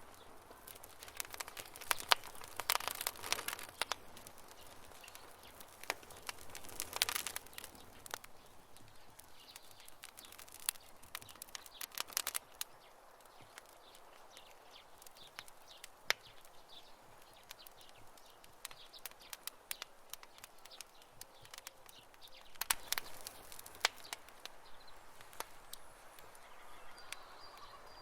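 Campfire crackling: scattered sharp pops and snaps from burning wood, with denser bursts of popping about two to four seconds in, around seven, around twelve, and again about twenty-three seconds in.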